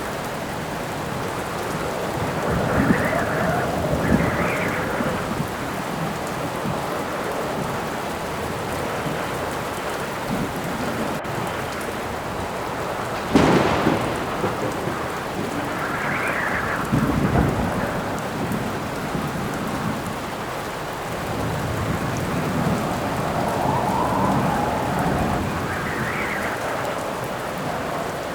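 Steady heavy rain with wind gusting in several rising and falling swells and thunder rumbling, with a sharp thunderclap about halfway through.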